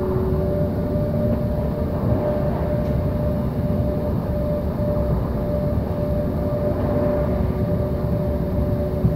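Electric commuter train carriage running at speed: a steady rumble of wheels on the rails, with a steady hum holding two notes.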